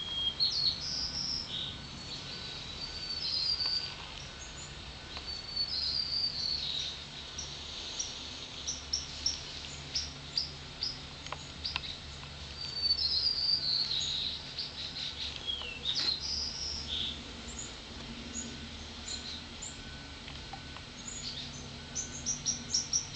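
Birds singing in the background: repeated short warbled phrases and chirps, with a quick run of chirps near the end.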